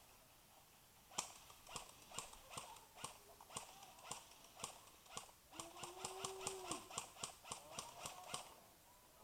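Airsoft guns firing single shots at a distance: a string of sharp clicks about two a second, speeding up partway through and stopping near the end. A short held tone sounds briefly in the middle.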